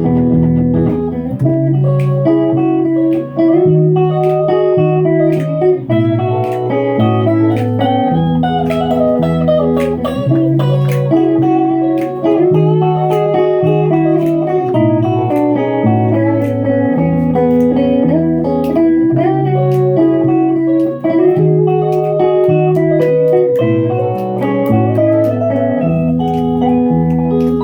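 Electric guitar music played live with no vocals: a low chord part changing about once a second under picked higher notes, layered like a looped guitar arrangement.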